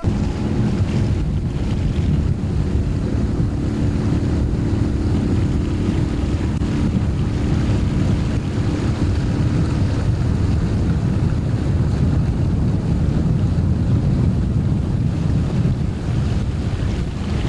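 Heavy wind buffeting and rumbling on the microphone, with a faint steady drone underneath in the first half.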